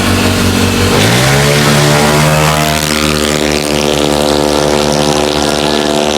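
Yamaha Aerox/NMAX racing scooters launching: the engine note rises sharply about a second in, then holds at a steady high pitch as the CVT keeps the revs up while they accelerate.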